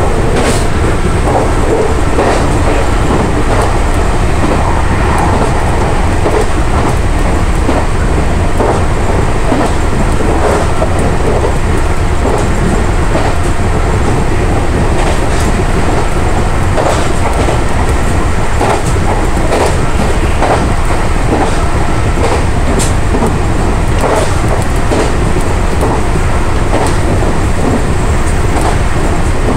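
Meitetsu 5700/5800-series electric train running at close to 100 km/h, heard from behind the cab: a loud, steady rumble of wheels on rail with scattered sharp clicks from rail joints and points.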